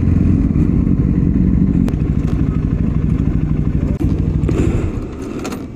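1000cc superbike engine idling with a fast, steady low beat, growing quieter near the end.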